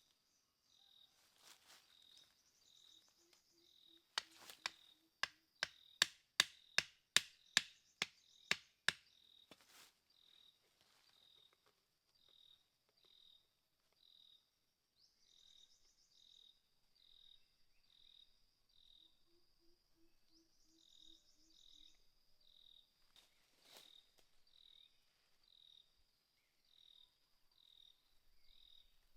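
About a dozen sharp knocks in quick succession, around two a second, such as a tool striking wood while building a shelter. Insects chirp faintly throughout in an even pulsing rhythm.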